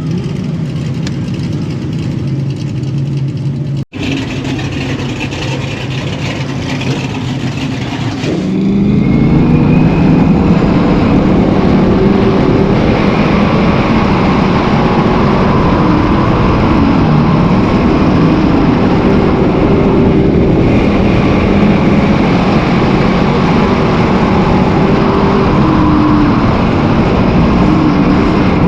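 Dirt-track race car engines running at speed. The sound gets louder about eight seconds in, with several engines rising and falling in pitch as they race.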